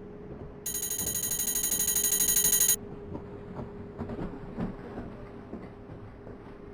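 Electric bell ringing rapidly, about ten strokes a second, for about two seconds, growing louder and then stopping abruptly. It sounds over the steady hum and rumble of a moving train.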